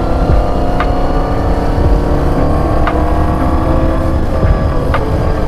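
Motorcycle engine running steadily while riding, under a heavy low rumble. A short, sharp tick comes three times, about two seconds apart.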